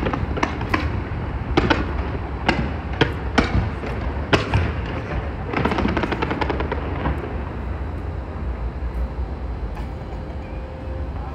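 Fireworks launched from a skyscraper's facade, going off in quick sharp bangs with a dense crackle over the first seven seconds or so, then thinning to a few scattered pops over a steady low rumble.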